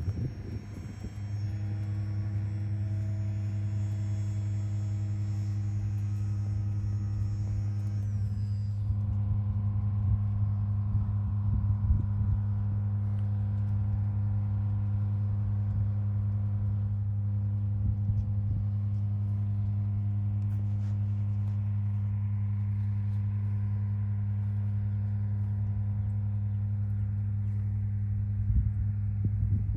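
High-pitched whine of an RC glider's electric motor during its climb, which slides down and stops about eight seconds in as the motor is cut. A steady low hum runs underneath throughout.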